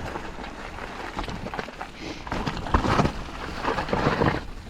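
Mountain bike riding noise on a GoPro: tyres on a wet trail, bike rattle and wind on the microphone, with two louder rough surges about two and a half and four seconds in.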